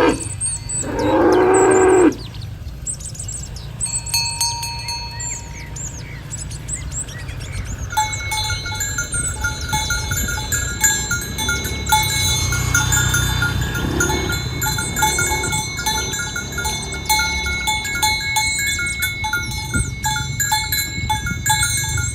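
A cow moos once at the start, a loud call lasting about a second. Cowbells on the herd then clink and ring over and over.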